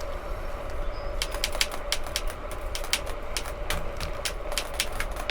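Bicycle rolling along a trail, with low wind rumble on the microphone and a steady hum. From about a second in come many irregular sharp clicks and ticks, a few a second.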